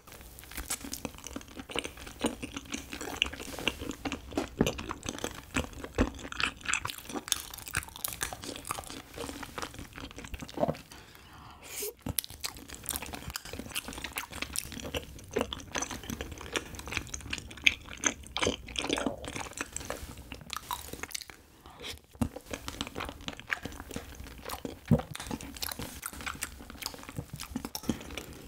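Close-miked chewing of chewy Korean rice cake (tteok): many small, irregular mouth clicks and smacks, with a couple of brief pauses.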